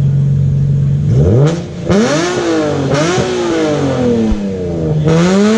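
Nissan Z car with an aftermarket exhaust idling steadily, then revved about a second in: several quick throttle blips that rise and fall in pitch, settling back and rising again near the end.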